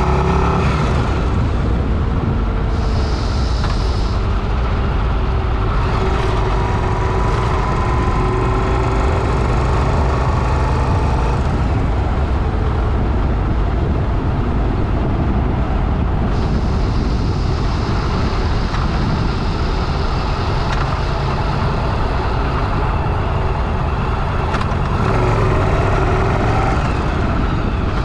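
Motorcycle engine running on the move, with wind and road noise over a helmet-mounted microphone; its pitch rises and falls with the throttle near the start and again near the end.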